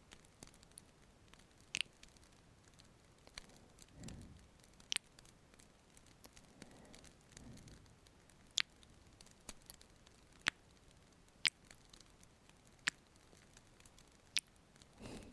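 Close-miked ASMR kissing: soft, wet lip smacks every second or two, with a few soft breaths, over a faint crackling fireplace.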